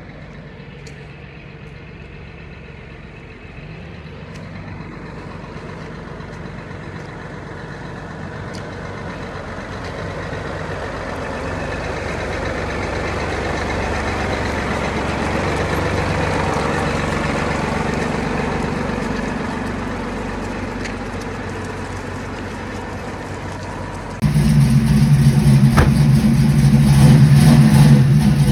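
Massey Ferguson 4607M tractor's diesel engine running, growing louder over about a quarter minute and then easing off. A sudden cut near the end brings the engine much closer and louder.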